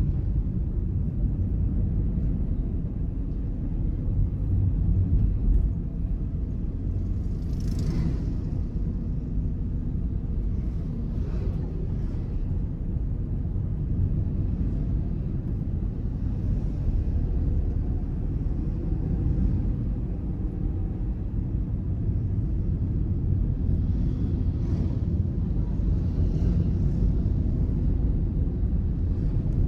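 A car driving at a steady pace: a continuous low rumble of engine and road noise, with a few faint swishes now and then, about a third of the way in and again near the end.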